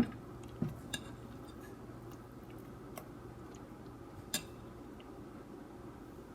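A few light, sharp clinks of a spoon against a batter vessel, scattered over a few seconds, with a steady low hum underneath.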